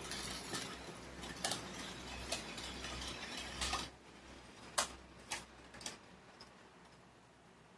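A Tyco model diesel locomotive running on the layout track, its motor humming and its wheels clicking on the rails as it passes close, then fading away about four seconds in, with a few more scattered clicks after.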